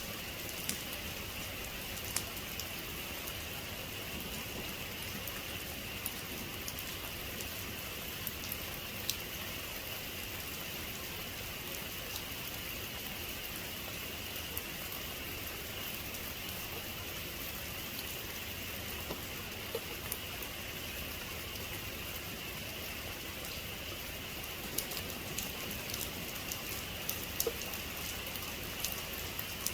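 Steady heavy rain falling, an even hiss with many sharp drop ticks scattered through it, a little busier near the end.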